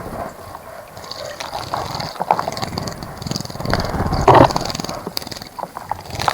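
Birds splashing in a bird bath: a scatter of small splashes and drips, with one louder splash a little past four seconds in.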